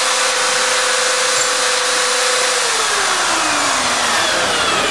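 Homemade slot milling machine running: its electric hand drills give a loud, steady whine over a rushing mechanical noise. About halfway through, one motor's tone falls steadily in pitch while the overall noise carries on.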